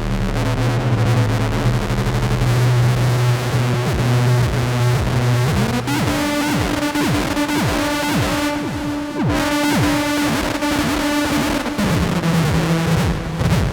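Novation Circuit groovebox playing a noisy experimental drone from the Howl synth preset pack. A low held drone steps up to a higher held tone about halfway through, with fast, repeating pitch sweeps warbling over it, then drops to a lower tone near the end.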